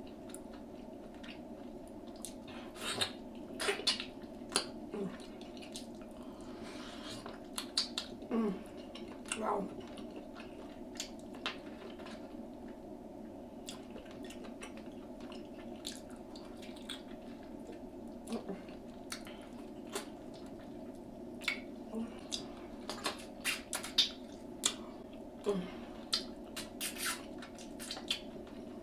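Close-miked eating sounds: irregular wet clicks and smacks of chewing and lip smacking as meat is eaten off the bone, over a steady low hum.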